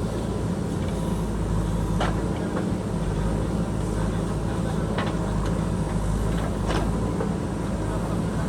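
JCB backhoe loader's diesel engine running steadily while it digs, with three sharp knocks spread across the stretch.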